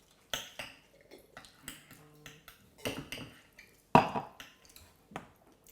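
Cutlery and dishes clinking and knocking while people eat: a handful of separate short clinks, the loudest about four seconds in.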